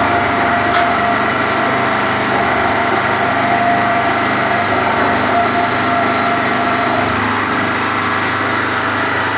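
Small portable generator's engine running steadily under load, drowning out the 550 W electric concrete mixer it powers. A whining tone within the sound stops about seven seconds in.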